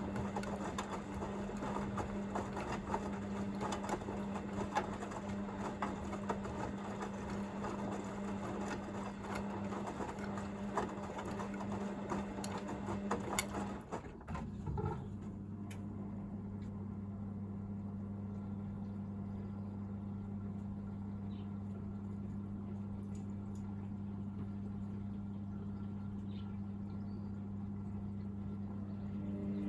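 Hoover VisionDynamic washing machine at the end of its second rinse: the drum turns the wet load with a busy clicking rattle over a steady motor hum. About halfway through the tumbling stops and the drain pump hums steadily, emptying the drum before the final 1000 rpm spin.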